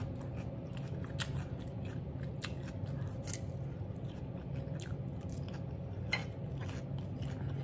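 A person chewing a mouthful of food close to the microphone, with scattered sharp wet mouth clicks about once a second over a steady low hum.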